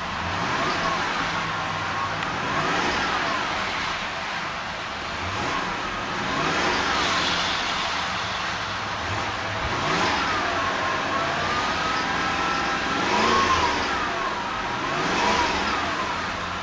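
1995 Lexus LS400's 4-liter 32-valve V8 being revved over and over, its pitch rising and falling with each blip of the throttle. It is a healthy, smooth-running engine at about 161,000 miles.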